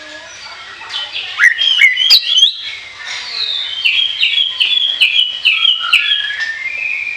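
Orange-headed thrush (anis kembang) singing a loud, varied song: quick rising and falling sweeps, then a run of about eight repeated falling whistled notes, two to three a second.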